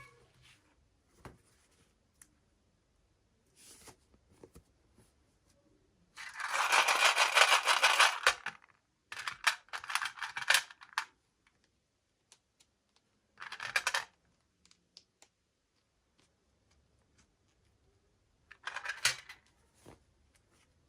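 Packaging being handled and opened, crinkling and tearing in several bursts. The loudest and longest lasts about two seconds, and small clicks and taps fall between the bursts.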